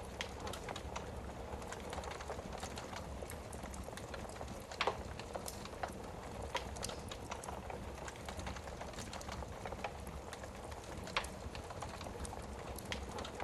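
Wood fire burning in a fireplace, crackling with irregular small snaps over a steady low hiss, and a couple of louder pops.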